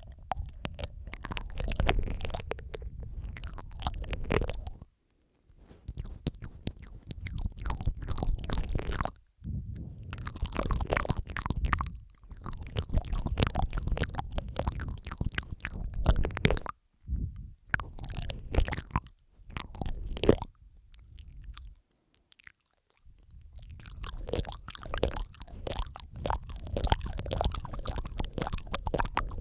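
Close-miked wet mouth sounds, layered: dense runs of tongue and lip clicks and smacking, the kind made in ear-licking ASMR, with a deep rumble under them. They come in bursts, broken by several short pauses.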